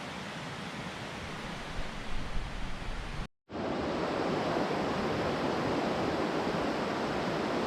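Swollen mountain stream rushing in a steady roar of water. The sound cuts out abruptly about three seconds in and comes back louder and steadier.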